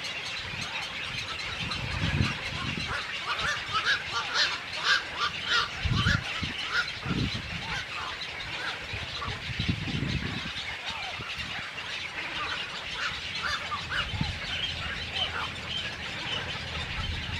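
Many birds calling at once, a dense run of short overlapping calls, with a few brief low thumps or rumbles now and then.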